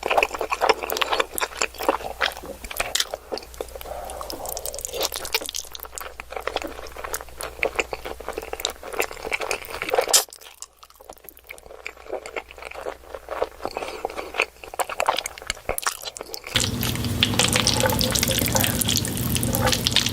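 Close-miked eating sounds: wet chewing and mouth smacks, with many small clicks. There is a quieter break about ten seconds in, and a steady hum joins about three and a half seconds before the end.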